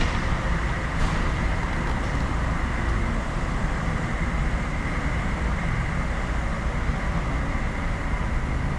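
Steady low mechanical rumble with hiss, even throughout with no knocks or breaks, of the kind made by a running vehicle or nearby traffic.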